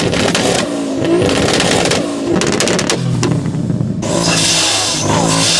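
Performance car engines revving and accelerating hard, heard as a run of short loud clips one after another with abrupt changes in the engine note.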